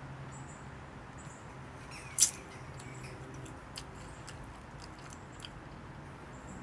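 Close-up chewing of food, with one sharp click about two seconds in and a few fainter ticks.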